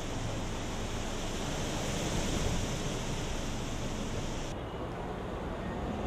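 Strong gusty wind blowing, a steady rushing noise with a low rumble. About four and a half seconds in the hissing top drops away abruptly, leaving a duller rumble.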